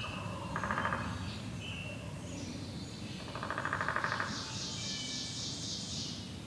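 Wild turkey gobbles, two rapid rattling calls about a second long, early on and about three seconds in, over songbirds trilling and chirping in the background.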